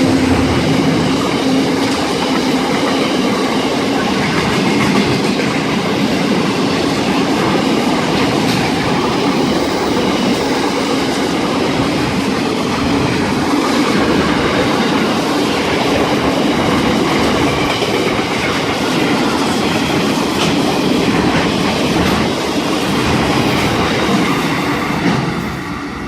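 Long steel freight train's wagons rolling past, wheels clicking over the rail joints, a loud steady rumble that starts to fade near the end.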